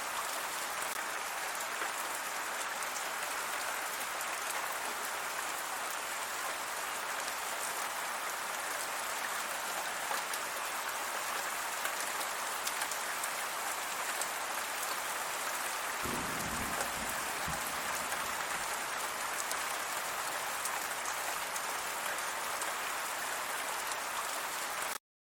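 Steady rain falling and pattering on surfaces, with a brief low rumble about two-thirds of the way through. The sound cuts off abruptly just before the end.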